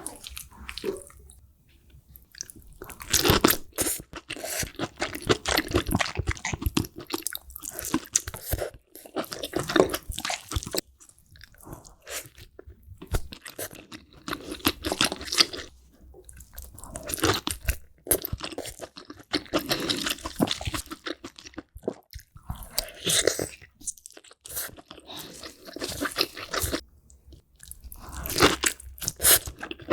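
A person eating seafood close to the microphone: crunching and chewing that comes in bursts of a few seconds with short pauses between.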